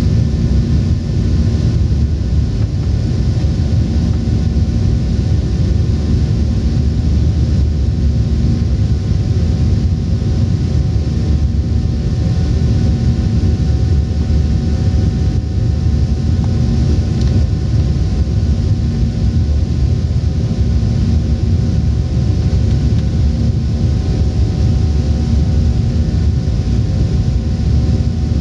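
Boeing 737-800 cabin noise: the CFM56-7B turbofan engines running steadily, a deep rumble with several faint steady tones above it, even in level throughout.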